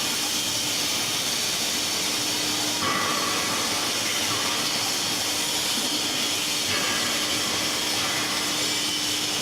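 Industrial machinery running with a steady hiss and a low, even hum underneath.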